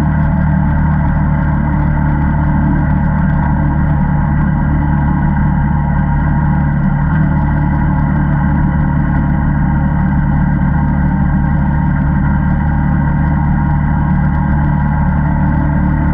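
ATV engine running steadily at an even, unchanging pitch, with no revving.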